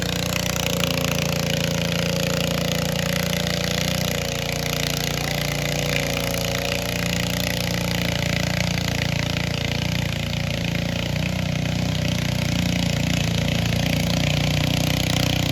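Tractor engine running loud and steady under load during a tractor pull, easing slightly about four seconds in and building again toward the end.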